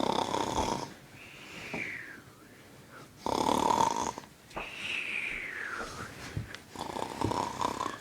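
A person snoring in repeated cycles: each is a rasping snore followed by a whistle that falls in pitch, three times over.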